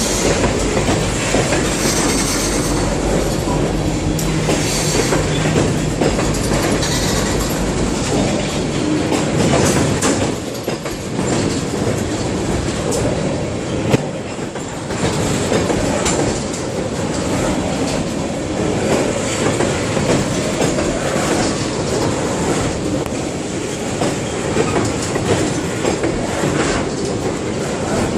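Freight train of tank cars rolling past at low speed as it pulls out: steel wheels clattering over rail joints, with clanks and a faint high wheel squeal.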